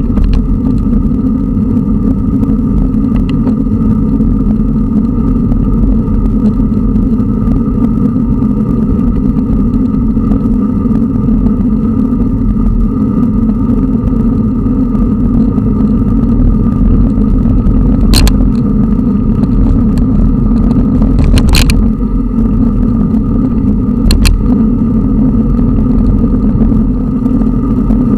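Steady low rumble of road traffic and wind rush heard from a cyclist's camera while riding, as a car drives past and overtakes. Three brief sharp clicks come in the later part.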